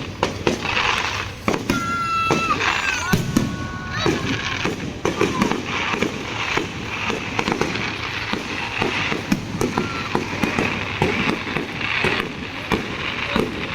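Fireworks going off in a rapid string of bangs and crackles, with a high whistling tone about two seconds in.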